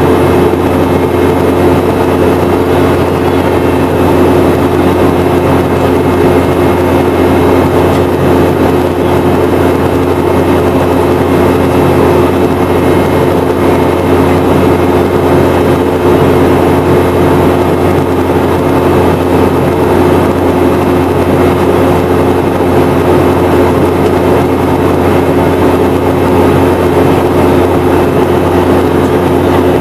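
Steady drone of a Boeing 717-200's tail-mounted Rolls-Royce BR715 turbofans heard inside the passenger cabin: a constant low hum with several steady tones over loud, even rushing noise.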